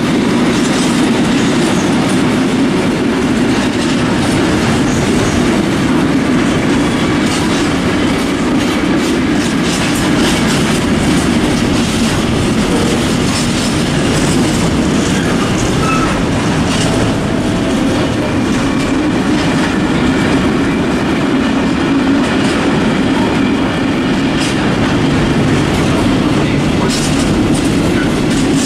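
Freight train of flat wagons and container wagons rolling steadily past, a loud continuous rumble of wheels on rail with scattered clicks of wheels over rail joints.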